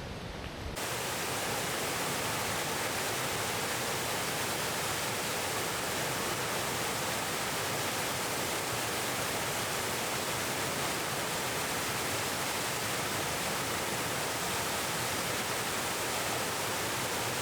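Waterfall, a steady, even rush of falling water that starts suddenly just under a second in.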